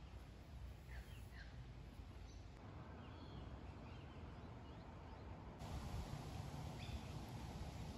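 Faint outdoor ambience: a few distant bird calls, each a short chirp, over a low steady rumble.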